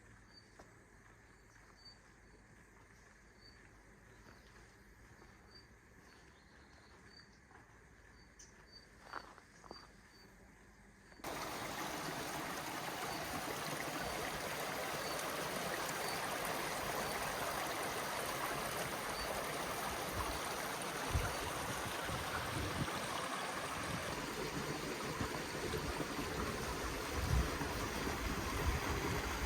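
Faint, regularly repeating insect chirps over a quiet background. About eleven seconds in, a loud, steady rush of running water from a stream suddenly takes over, with a few low thumps near the end.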